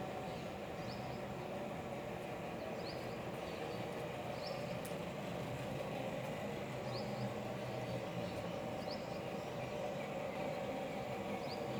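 Steady street ambience in the rain, with a low vehicle engine hum beneath it and a short high chirp repeating every second or two.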